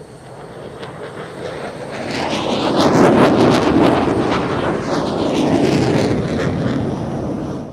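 Fighter jet's turbofan engine roaring past at an airshow. It swells to a peak about three seconds in, holds, then eases off as the jet passes.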